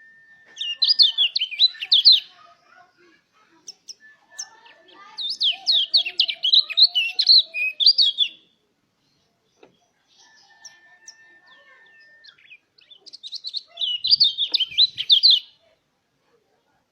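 White-eye (pleci) singing: three bouts of rapid, chirpy twittering song, each about one and a half to three seconds long. A faint, steady high whistle-like tone sounds in the pauses between bouts.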